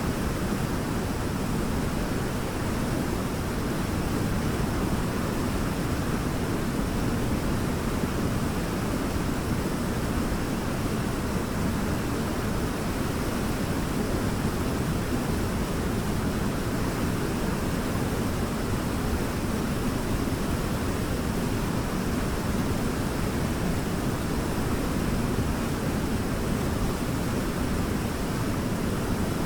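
Waterfall pouring: a steady, unbroken rush of falling water, fullest in the low and middle range.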